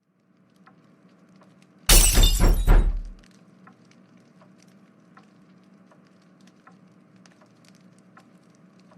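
Stock crash-and-shatter sound effect, about two seconds in and lasting about a second, standing for a video game copy being smashed. After it, a faint steady hum with scattered light ticks.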